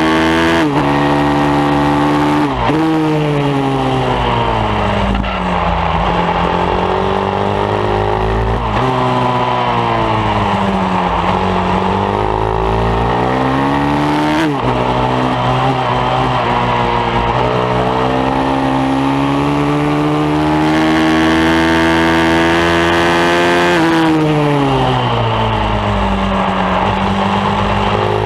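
Pit bike's single-cylinder four-stroke engine at racing speed on a track, revving up and falling off again and again as it accelerates out of corners and slows into them, with abrupt pitch jumps at the gear changes. About two-thirds of the way through it holds a high, steady pitch at full throttle, then winds down.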